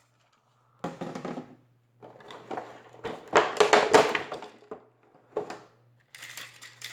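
Plastic packaging and parts being handled: crinkling and clicking with knocks, busiest around three to four and a half seconds in.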